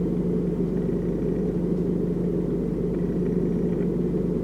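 Car running with a steady low rumble and a constant hum, unchanging throughout.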